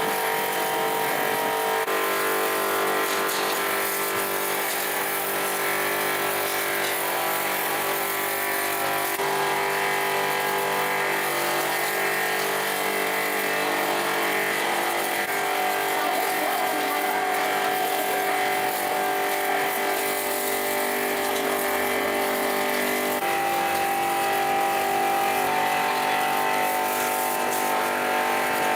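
A machine running steadily with a droning hum. Its pitch jumps abruptly about two, nine, fifteen and twenty-three seconds in.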